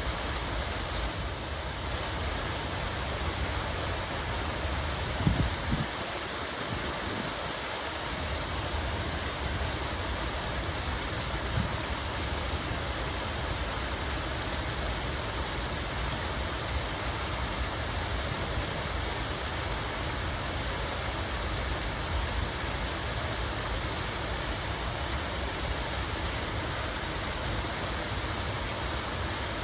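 Water running and splashing in a park fountain or cascade: a steady, even rush. A brief low rumble comes about five seconds in.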